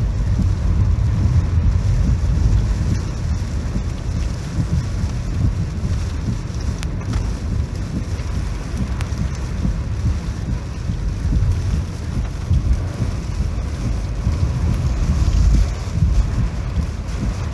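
Typhoon wind and rain, with gusts buffeting the microphone as a heavy, fluctuating low rumble over a steady hiss.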